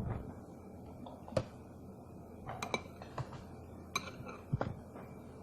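Utensils clinking and tapping against a plate or bowl during a meal: several sharp, irregularly spaced clinks.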